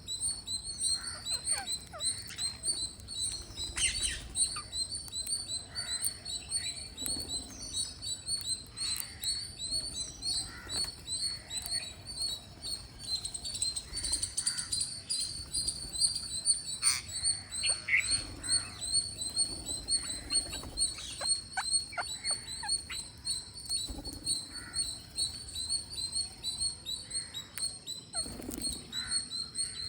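Green parrots chirping in a fast, unbroken string of high pips, with scattered sharp clicks and short calls as they feed.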